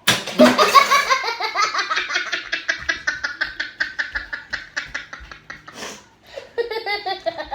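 A person laughing hard in a long run of rapid, repeated 'ha' pulses lasting about five seconds and gradually fading, followed by a second shorter burst of laughter near the end.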